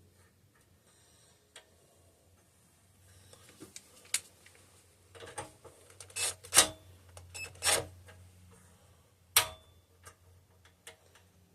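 Scattered clicks and knocks of hand tools and small metal parts being handled as a bolt is threaded into its hole, with a few louder clanks around the middle and one more a couple of seconds later.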